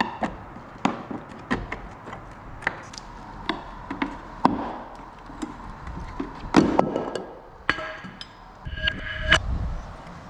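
Irregular wooden knocks and taps as the small wooden pocket door in an old sash window's jamb is worked loose by hand, with a louder clatter about six and a half seconds in. A few short pitched squeaks come near the end.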